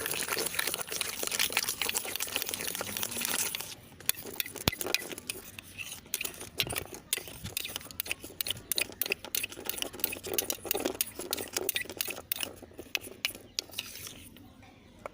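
A sticky sugar-and-shampoo slime mixture being stirred by hand: quick, irregular scraping and clicking, which dies down about a second before the end.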